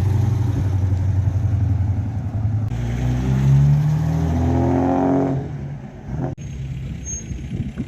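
A car engine running steadily nearby, then revving up with rising pitch for about two seconds from about three seconds in, before dropping off and fading quieter.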